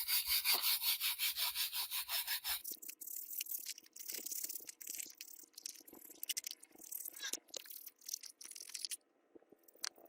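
Rapid back-and-forth rubbing strokes on a surface, about six a second, as in hand scrubbing or sanding during restoration work. After about two and a half seconds they give way to slower, irregular scraping strokes.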